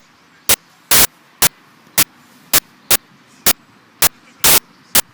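A run of loud, sharp bangs or cracks, about two a second and fairly regular, over a faint steady hiss.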